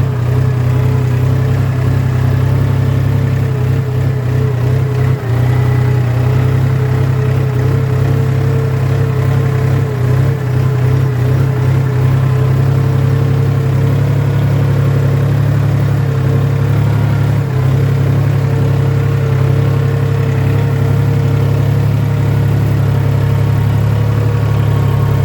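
Tractor engine running steadily under load while plowing under spent marigold plants: a constant low drone with a slightly wavering higher whine above it.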